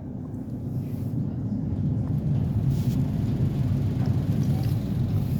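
Low engine rumble that grows louder over the first couple of seconds and then holds steady.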